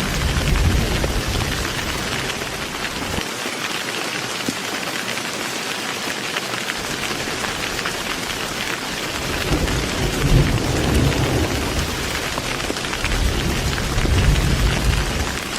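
Heavy rain with rolling thunder. The rain makes a steady, even hiss, while a deep rumble of thunder fades out about three seconds in, comes back a few seconds later and swells again near the end.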